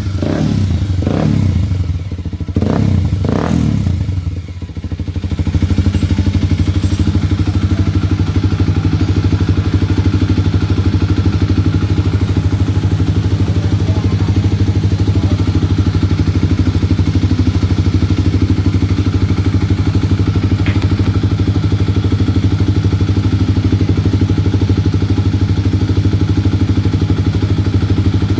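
Kawasaki D-Tracker 250's single-cylinder four-stroke engine through an aftermarket MIVV exhaust: a few quick throttle blips, each falling away, then from about five seconds in it settles to a steady idle.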